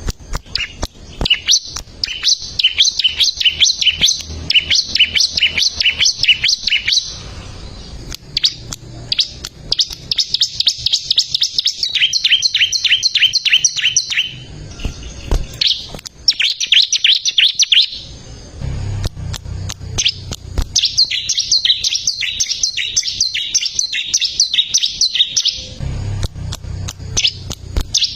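Bar-winged prinia (ciblek) singing in long, fast runs of sharp, high chirps, about six notes a second. Each run lasts several seconds, with brief pauses between them.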